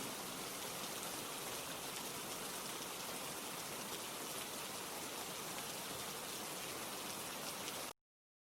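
Steady rainfall, an even hiss of many drops, which cuts off abruptly shortly before the end.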